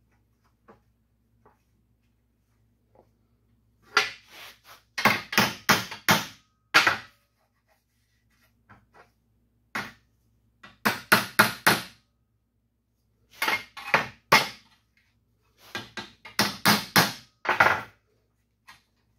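Hammer striking a metal car grille bar in four bursts of quick blows, several a second, with short pauses between bursts: the bar is being worked back into shape.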